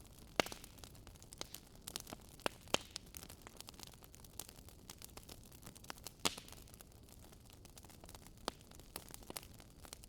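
Wood fire crackling: a soft steady hiss with scattered sharp pops, the loudest about half a second in, near three seconds and just past six seconds.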